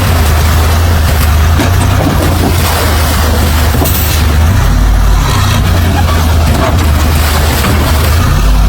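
Heavy diesel engine of earthmoving machinery running steadily with a deep low rumble, with a few short knocks over it.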